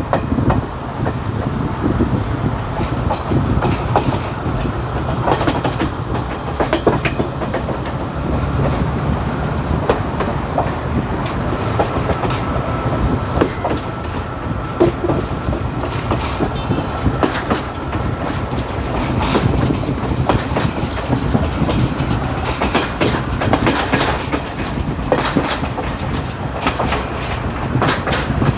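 Local passenger train running along the track, a steady low rumble broken by irregular clicks and clacks of the wheels over rail joints. A faint thin whine holds for several seconds midway.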